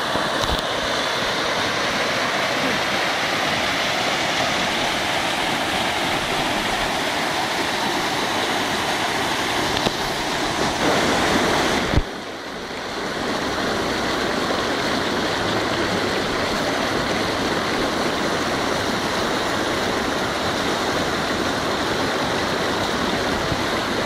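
Steady rush of fast-flowing rainwater. About halfway a sharp click cuts it, the level dips briefly, and then the same steady rush returns.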